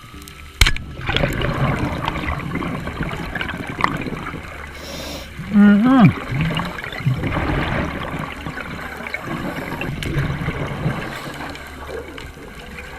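Underwater bubbling and gurgling of a scuba diver's exhaled breath. There is a sharp click about half a second in and a short pitched sound that bends downward around six seconds in.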